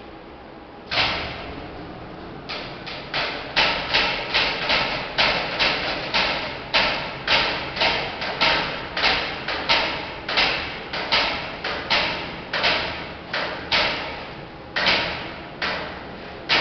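Hydraulic car lift knocking sharply and repeatedly while it moves, about two knocks a second, sparser near the start and end: the abnormal noise the lift makes when raising or lowering.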